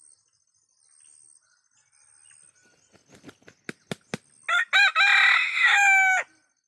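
Ayam kampung rooster flaps its wings in a few quick claps, then crows once for about two seconds. Faint insects chirr steadily behind it.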